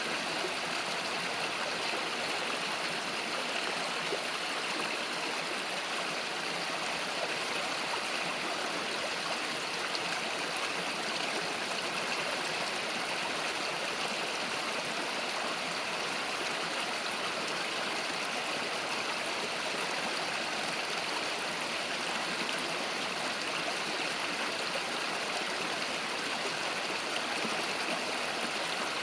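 A small river flowing, a steady rush of water over stones with no breaks or single events.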